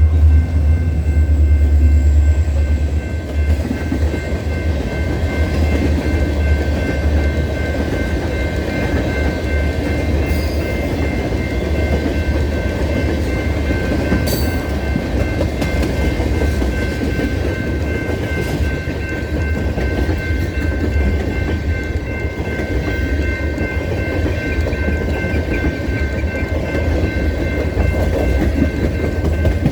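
Freight train of ballast cars rolling past, with a deep, steady diesel locomotive rumble and the clatter of wheels on the rails. A steady high-pitched squeal sits over it.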